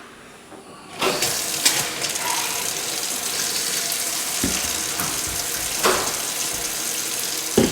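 Kitchen faucet turned on about a second in, water running steadily into the sink as hands are washed under it, with a few light knocks.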